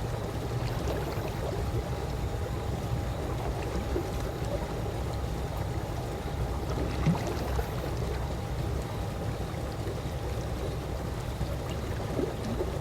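Calm swimming pool water lapping and trickling steadily, with small splashes, one a little louder about seven seconds in. A faint steady hum sits underneath.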